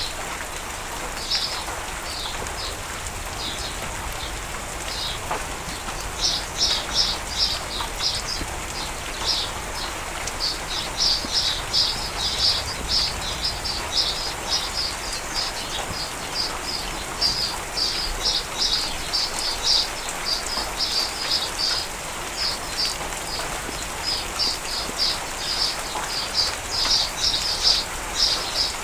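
Steady rain falling, with a small songbird calling over it in quick runs of short, high chirps that come more often after the first few seconds.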